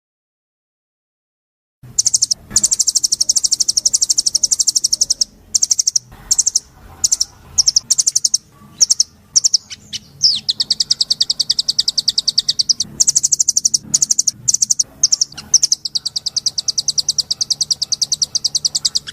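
A songbird singing long, very rapid high trills of repeated notes in bouts, separated by short gaps and a few quick chirps. It starts after nearly two seconds of silence.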